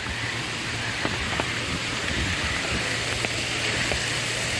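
Steady hiss of falling water, with a few faint ticks.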